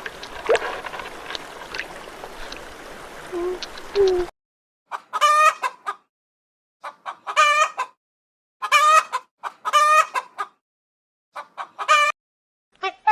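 Chicken calls: after a few seconds of background ambience with a few short sounds, about five loud, separate calls, each under a second long, with silent gaps between them.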